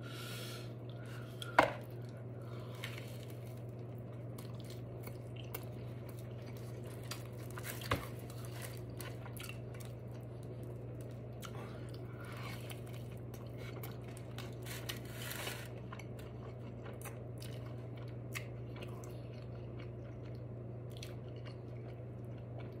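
Close-miked eating of a steak quesadilla: soft chewing and mouth sounds with scattered small clicks, over a steady low hum. A sharp click about a second and a half in is the loudest sound.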